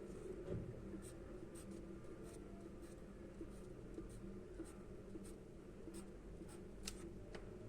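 Charcoal scratching on paper in short, quick strokes, faint, over a low steady hum.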